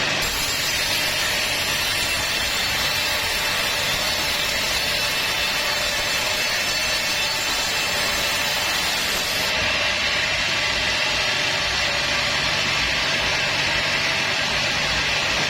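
Sawmill saw running through a teak log, a steady loud mechanical noise with a low hum underneath; the high hiss of the cut drops away about nine and a half seconds in.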